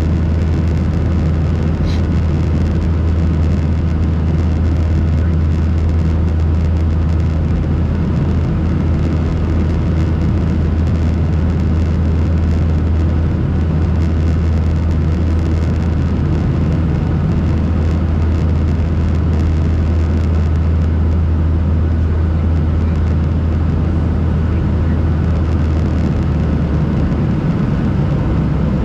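Steady engine drone and rushing airflow inside the cabin of a Boeing 737-800 with CFM56 engines during the climb after takeoff. A deep low hum sits under a constant broad rush.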